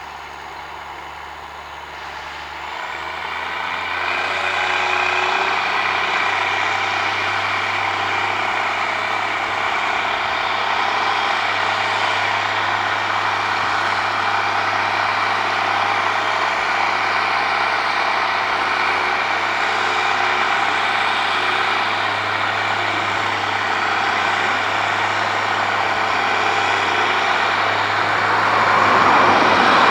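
Case Magnum 7210 tractor's diesel engine running, getting louder over the first few seconds as it picks up revs, then holding a steady drone with a broad mechanical din.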